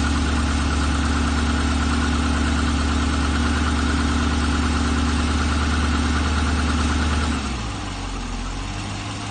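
Chevrolet LS3 6.2-litre V8 idling steadily, with the noise the owner takes for piston slap. About seven seconds in, the engine sound drops in level and pitch and runs on lower.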